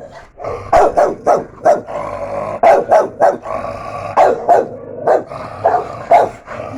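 Dogs barking repeatedly in sharp, short barks, about two a second.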